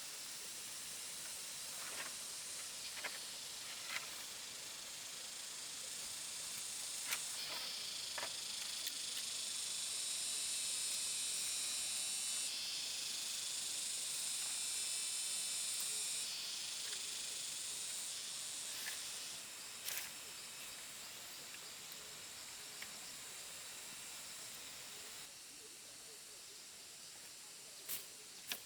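A high, hissing insect chorus, loudest through the middle, that drops off abruptly a few times, with scattered light taps and clicks over it.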